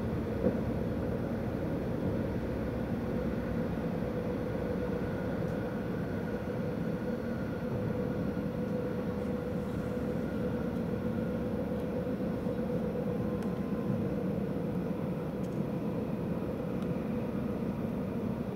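Cabin noise of a Stadler FLIRT electric multiple unit running along the line: a steady rumble with a constant hum through it.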